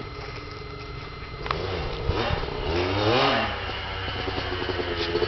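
Motorcycle engine idling, then revved about a second and a half in: the pitch climbs to a peak past the middle and drops back to a steady run.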